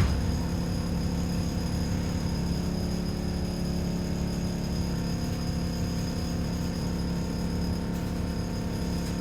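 ADL Enviro 400 double-decker bus engine running at a steady speed, heard from inside the bus as a constant drone with a thin high whine. A short knock comes right at the start.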